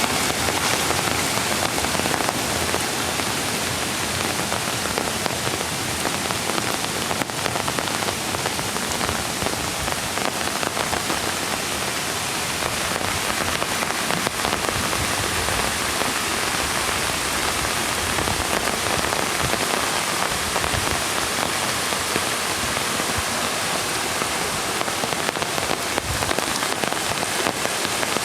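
Steady rain falling, many small drop ticks over an even hiss.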